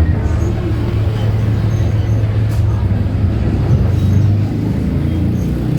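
Diesel engine of a VW 17-230 OD Euro V city bus, heard from inside the bus, running under way with a steady low drone that eases slightly about four and a half seconds in.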